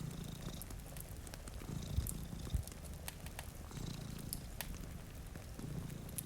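Domestic cat purring, the low purr swelling and easing about once every two seconds with its breathing. Small sharp pops of a crackling wood fire and a soft hiss of rain run underneath.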